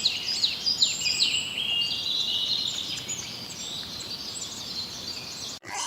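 Small birds chirping: a run of quick, high, falling chirps, then steadier twittering, which cuts off abruptly just before the end.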